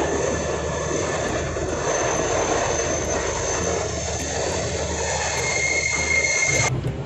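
Passenger train running: a steady rumble and rush of wheels and motion with a couple of thin, steady high-pitched whines over it, which cuts off abruptly near the end.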